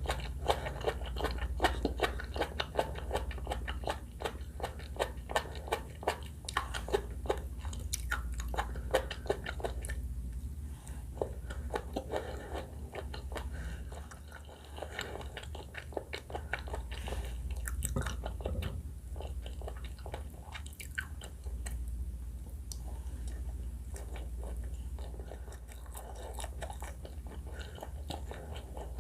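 Close-miked chewing and biting of sushi and salad in pink sauce: a dense run of sharp mouth clicks and short wet smacks. They thin out for a few seconds about halfway through, then pick up again, over a steady low hum.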